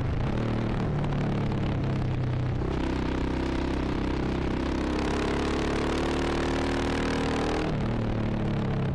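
Motorcycle engine under throttle, its pitch climbing steadily for about five seconds, then dropping suddenly near the end, over steady wind rush.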